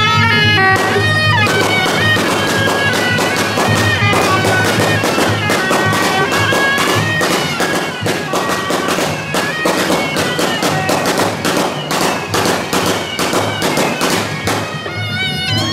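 Suona shawm band playing a shrill reedy melody, drowned out from about a second and a half in by a long string of firecrackers going off in rapid, irregular cracks, which stop near the end as the suona melody comes back through.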